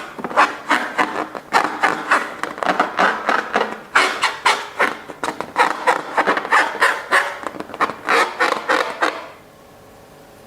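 Slime being squished and worked, a dense, irregular run of wet clicks and squelches that stops suddenly about nine seconds in.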